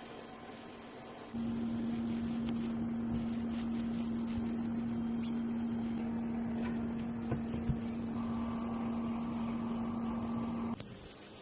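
A motor runs with a steady single-pitch hum that starts suddenly about a second in and cuts off abruptly near the end; a higher steady whine joins it for the last few seconds.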